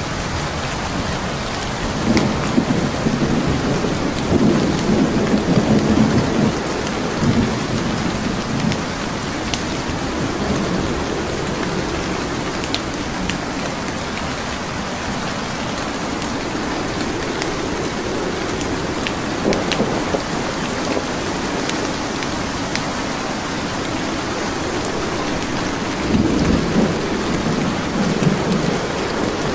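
Steady rain with a wood fire crackling: scattered sharp pops over an even hiss. Two spells of low rumbling rise over it, one from about two to seven seconds in and another near the end.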